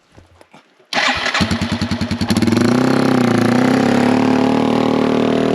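Yamaha TW200's single-cylinder four-stroke engine starting about a second in, its firing pulses quickening as it catches, then running steadily.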